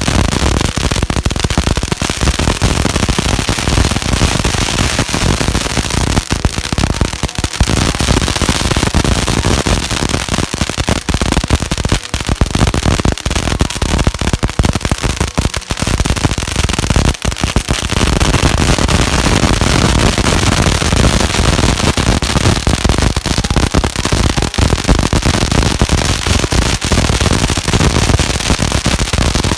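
Strings of firecrackers going off in a dense, rapid, continuous crackle of loud bangs.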